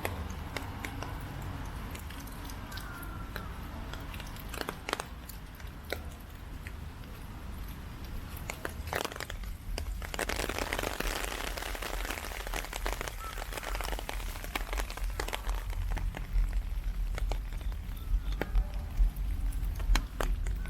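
Heavy typhoon rain, with close drops crackling and ticking, thickest for a few seconds in the middle, over a steady low rumble.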